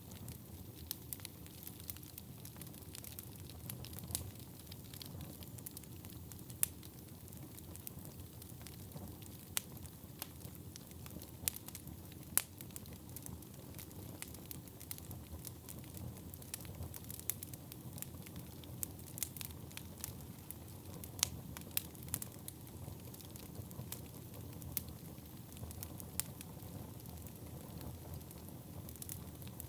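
Wood fire burning in a fireplace: a low steady rumble of flames with irregular sharp crackles and pops scattered throughout.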